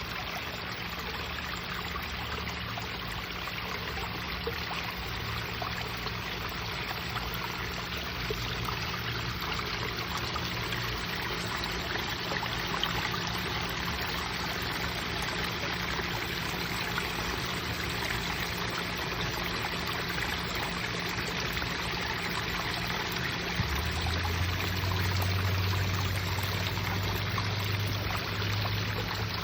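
Water pouring and splashing steadily from a garden wishing-well waterfall feature. A low hum runs underneath and grows louder about three-quarters of the way through.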